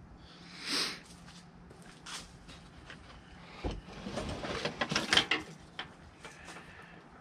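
Sharp plastic clicks and knocks as the HVAC heater box and its wiring are handled, with a soft rustle about a second in and a quick run of clicks a little past halfway, as the wiring connectors are unclipped from the blend door motors.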